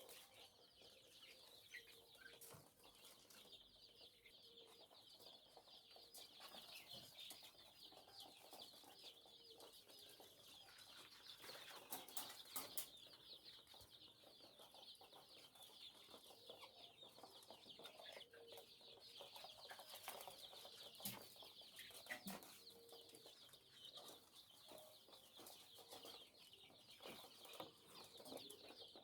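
A brood of young chickens peeping non-stop, a faint dense high-pitched chatter of many birds at once, with a few short knocks now and then.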